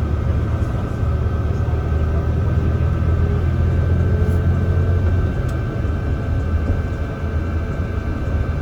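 Mercedes-Benz O307 city bus heard from inside the passenger saloon while driving: a low diesel engine rumble that builds and then eases off about five seconds in, over a steady thin whine.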